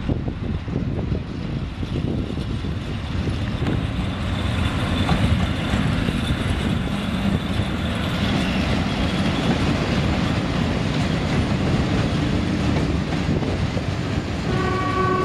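ET22 electric freight locomotive and its train of tank-container flat wagons running past, a dense steady noise of wheels on rails and wagons that grows louder a few seconds in and stays up as the wagons roll by. A horn sounds briefly near the end.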